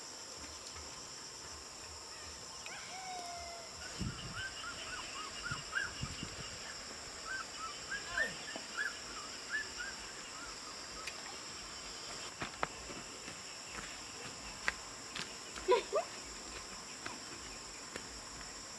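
Steady high trilling of crickets or other insects. Over it, a run of short chirps sounds from about four to ten seconds in, and a louder single call comes near the end.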